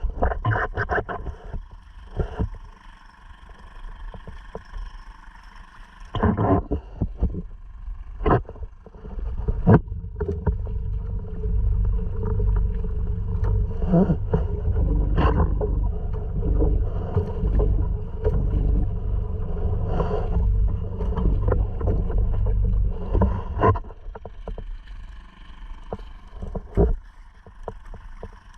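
Small Honda 2.3 four-stroke outboard running steadily on a sea kayak, with water splashing and scattered knocks against the hull. A heavy low rumble, like wind buffeting the microphone, swells in about a third of the way through and eases off near the end.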